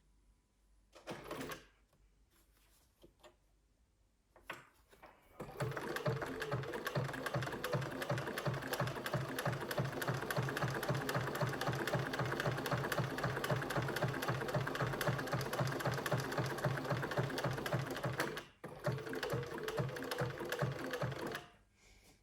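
Bernina 1230 sewing machine running at speed with a fast, even stitching rhythm, after a short blip. It runs for about thirteen seconds, stops briefly, runs again for a few seconds and stops.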